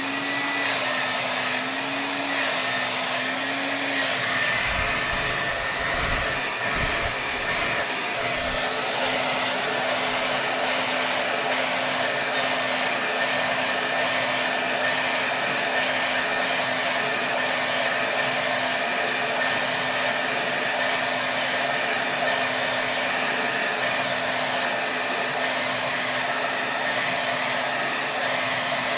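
Hair dryer blowing steadily at full power: a constant rush of air over a motor hum. The hum wavers in pitch for the first few seconds, then holds steady. A few low thumps come around five to eight seconds in.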